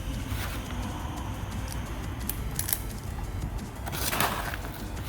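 Plastic airsoft BBs rattling and clicking as they are poured and pressed by hand into an airsoft rifle magazine. There are a few sharp clicks, and a brief rattle about four seconds in.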